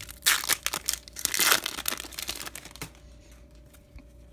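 A 2018 Topps Opening Day baseball card pack's wrapper is torn open and crinkled for about the first two seconds. After that come a few light clicks from the cards being handled.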